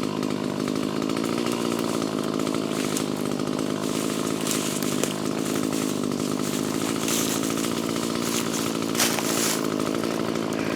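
Chainsaw running steadily at high speed, cutting through a log.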